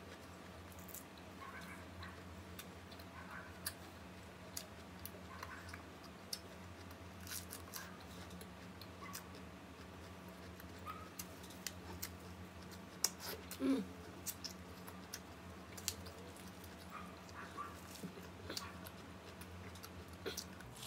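Close-miked chewing of crisp lettuce: irregular small crunches and wet mouth clicks over a steady low hum, with a short voiced "mm"-like sound about two-thirds of the way through.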